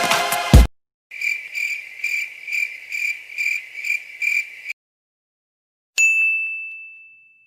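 Cricket chirping sound effect: a steady run of about eight high chirps, evenly spaced, lasting about three and a half seconds. After a short gap a single bright ding rings out and fades away. A dance music clip cuts off just under a second in.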